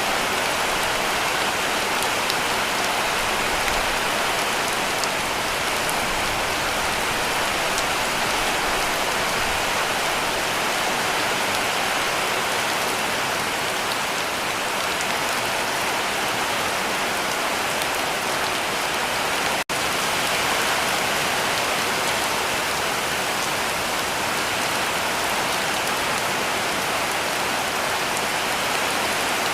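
Heavy rain drumming steadily on a cabin roof, a dense, even hiss of countless drops. It cuts out for a split second about two-thirds of the way through.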